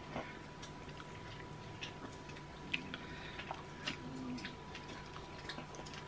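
Quiet eating sounds: irregular small clicks and mouth noises as soft baked pretzels are torn apart and chewed, over a faint steady high-pitched whine and low hum from the room.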